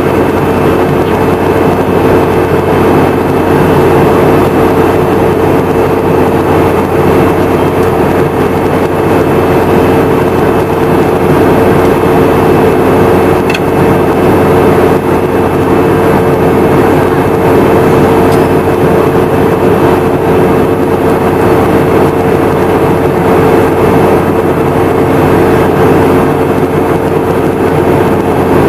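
Boeing 717-200's rear-mounted Rolls-Royce BR715 turbofans heard inside the passenger cabin: a loud, steady drone with a constant hum, unchanging in pitch or level.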